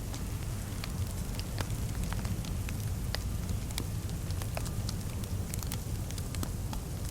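Fireplace crackling, with irregular sharp pops and snaps over a steady low rumble.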